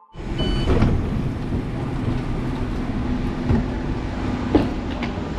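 Train door opening at a station platform, with a short high beep about half a second in, then the steady rumble and hum of trains standing at the platform, with a few knocks, the sharpest near the end.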